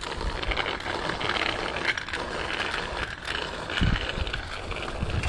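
Bicycle riding along a paved street: steady tyre and road noise with the rattle of the bike, and low wind buffets on the camera microphone about four seconds in and again near the end.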